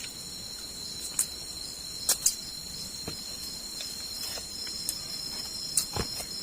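Steady, high-pitched insect chorus with a few short, sharp clicks or snaps scattered through it; the loudest is a quick pair about two seconds in.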